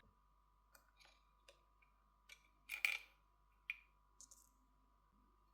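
Near silence broken by a few faint clicks and ticks, the loudest about three seconds in: small tools prying at the fingerprint sensor inside a Motorola Moto G60 smartphone.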